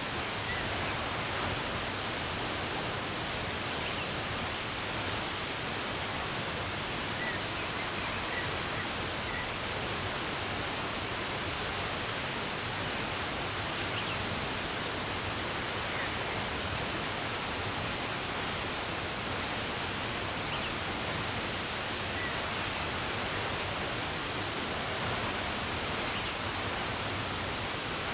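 Steady rush of running water, with a few faint, scattered bird chirps.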